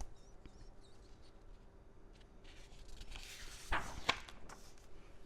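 Picture-book page being turned: a faint paper rustle with two soft taps about two thirds of the way through.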